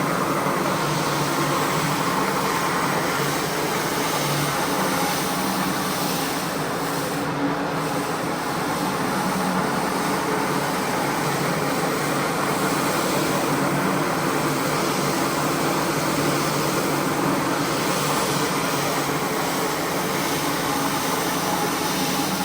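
Motorised carpet-cleaning machine running steadily, a constant rushing noise with a low hum under it.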